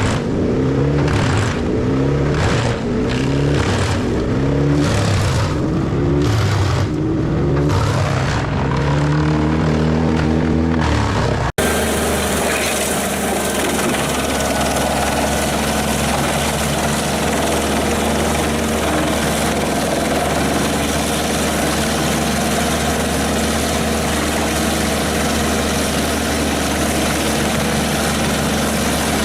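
Wood chipper's diesel engine lugging down and recovering over and over as wood is fed in, with bursts of chipping noise about once a second. About eleven seconds in, the sound cuts to a chipper engine running at a steady speed under an even, continuous grinding hiss.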